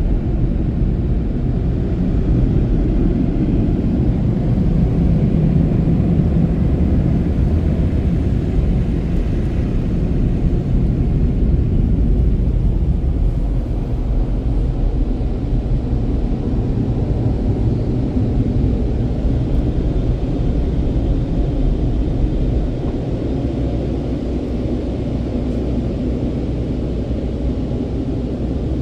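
Automatic car wash tunnel equipment running with a steady low rumble that eases slightly about halfway through.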